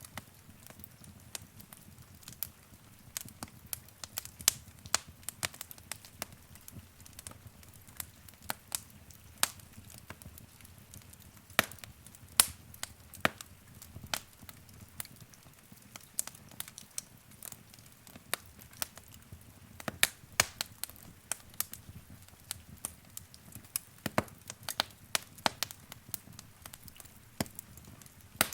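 Wood fire crackling in a fireplace: irregular sharp pops and snaps, several a second, over a low, steady hiss of burning.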